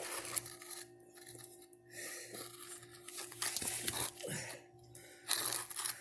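Rustling and scraping handling noise in three bursts, about a second apart, as the camera is moved into position, over a steady faint hum.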